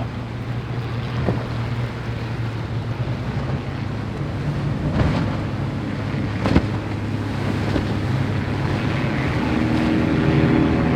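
Powerboat engines running steadily, growing louder and rising in pitch toward the end as the boat comes nearer, over the wash of waves and wind on the microphone. Two sharp knocks stand out about five and six and a half seconds in.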